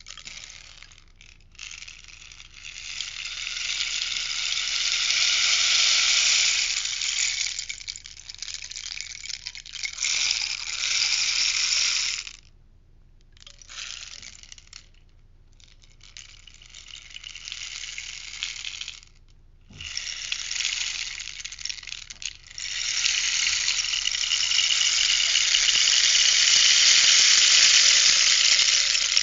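Rainstick being tipped, its pebbles trickling down inside as a pattering, rain-like hiss. It comes in long pours with a few short breaks as the stick is turned over, and the last pour is the longest and loudest.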